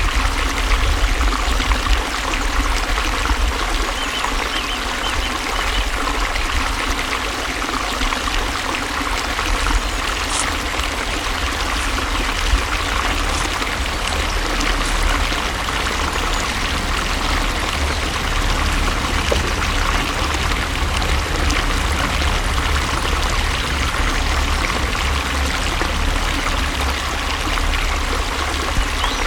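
Water flowing steadily: a continuous, even rush with a deep low rumble underneath.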